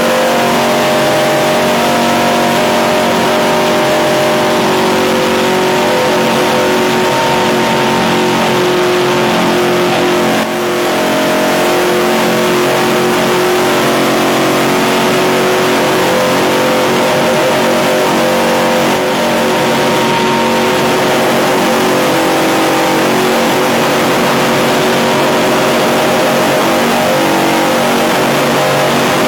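NASCAR Craftsman Truck Series race truck's V8 engine running loud and steady at high revs at speed, heard from inside the cab, with a brief drop in engine sound about ten seconds in.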